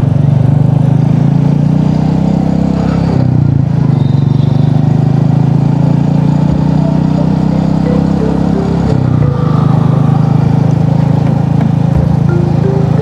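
Motorcycle engine running steadily under way, with its pitch dipping briefly about three seconds in and again about nine seconds in as the throttle eases.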